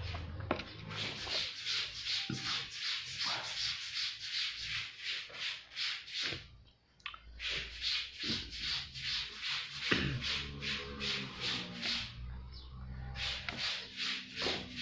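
Close-miked chewing of a meal of tofu, tempeh, cassava leaves and long beans: a quick, steady run of moist crunching strokes, breaking off briefly twice.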